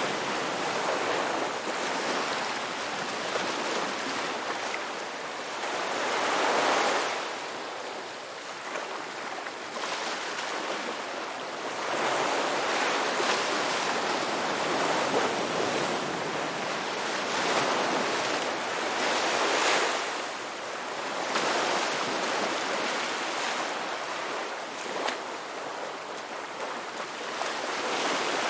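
Sea waves washing onto a shore. The surf noise swells and eases every few seconds.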